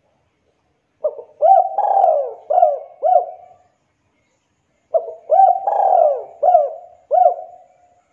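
Spotted dove cooing: two phrases of about five notes each, a few seconds apart. Each phrase has a short opening note and a longer, louder note in the middle.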